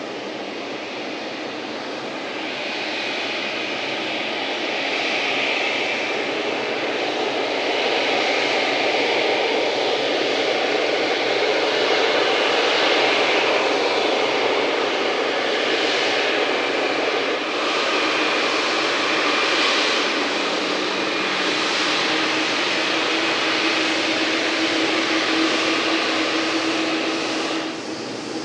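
Boeing 777-9's GE9X turbofan engines running, a steady jet noise with a faint high whine that swells over the first ten seconds or so and holds. It cuts off abruptly near the end.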